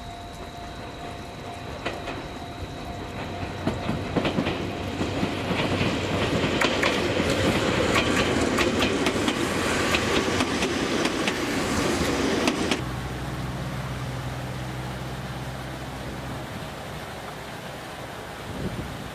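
Omi Railway 820 series electric train passing close by. Its rolling noise builds as it approaches and is dense with clicks of the wheels over rail joints. About thirteen seconds in, the sound cuts off suddenly to a quieter steady low hum.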